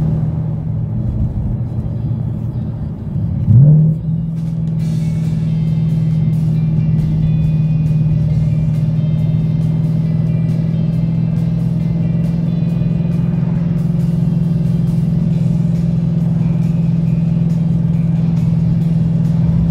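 Ford Mustang S550's engine pulling the car, with a quick rev about three and a half seconds in and then a steady drone at constant revs. Background music plays underneath.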